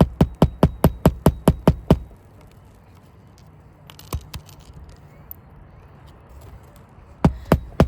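Hammer driving roofing nails into a shingle: a fast, even run of blows, about six a second, for the first two seconds, then a pause, and another run starting near the end.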